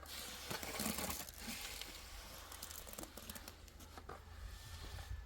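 Rustling and crinkling with scattered light clicks, loudest for about a second near the start.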